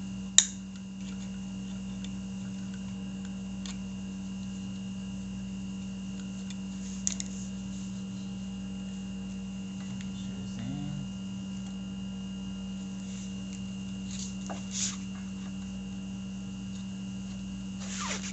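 Steady low electrical hum, with a few sharp metallic clicks from handling tools or brake parts, the loudest just after the start.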